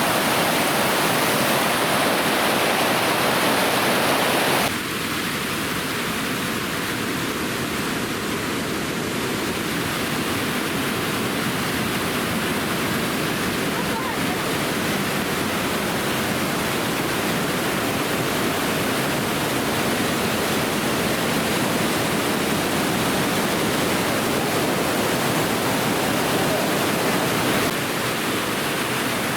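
Waterfall water rushing steadily. The sound drops abruptly and gets a little quieter about five seconds in, and shifts again near the end.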